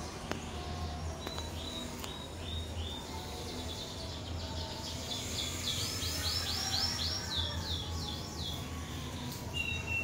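Birds chirping in quick series of short, downward-sweeping high chirps, densest and loudest around the middle, over a steady low hum.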